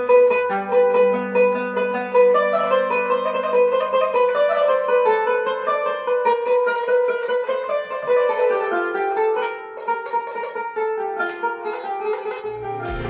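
A string instrument playing a solo melody with quick, repeated note attacks over a held low note, with no singing. Near the end a deeper, fuller piece of music comes in.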